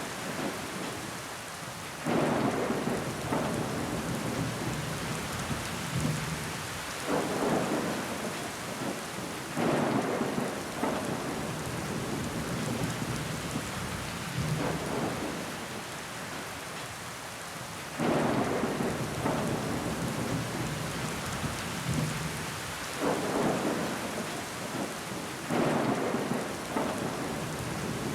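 Rain pattering steadily against a window pane, with sudden louder swells every few seconds.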